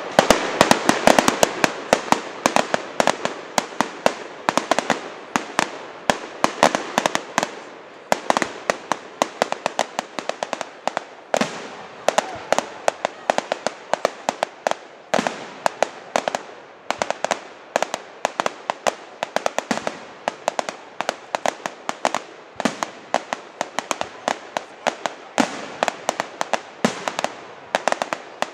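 Fireworks display: a dense, rapid run of sharp cracks and pops, several a second, with louder bangs standing out among them.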